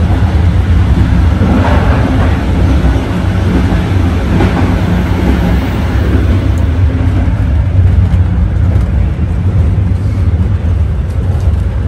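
Steady low rumble of the Fadak passenger train running at speed on the rails, heard from inside the carriage, swelling briefly twice, about two and four and a half seconds in.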